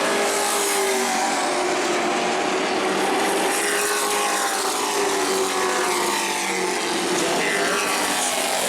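Several Pro Truck race trucks' engines running at speed around a short oval, their pitches sliding up and down and overlapping as the trucks go by.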